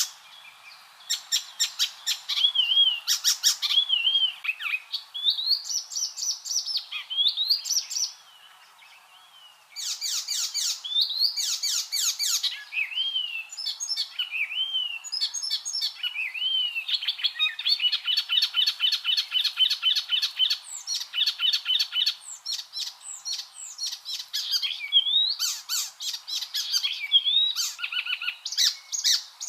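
Icterine warbler singing a fast, varied song: slurred whistles mixed with rapid chattering notes, with a long even trill about halfway through and a short pause about eight seconds in.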